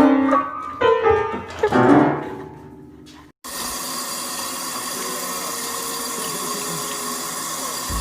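Piano music fading out over the first three seconds, then after a sudden cut a steady rush of water running from a tap.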